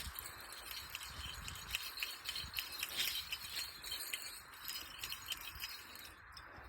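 A flock of small birds calling with many short, high chips and twitters scattered through, over a steady hiss and low thumps.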